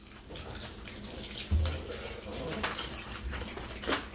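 Close-up wet chewing and lip-smacking, with irregular small clicks and smacks, and a low thump about one and a half seconds in.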